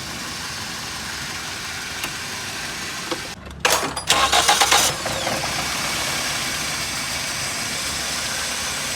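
Toyota XLi car engine running, cutting out briefly about three seconds in, then restarted: the starter cranks in a pulsing burst for about a second before the engine catches and settles into a steady idle.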